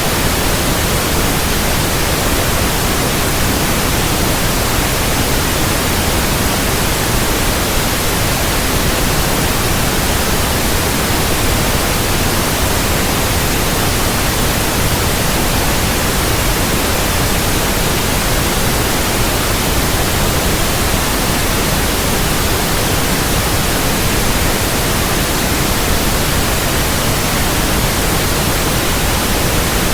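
Steady, even white noise, a continuous hiss across all pitches with no change, made as a sleep sound for infants.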